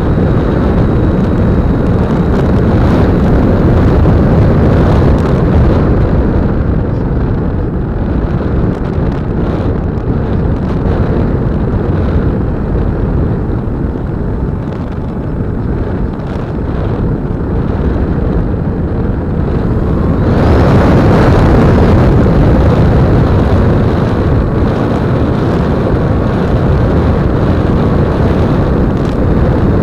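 Wind rush and the electric motor and propeller of an E-flite Apprentice 15e RC airplane, heard from a small camera mounted on the plane in flight. It is a steady, loud rush that gets louder and brighter about two-thirds of the way through.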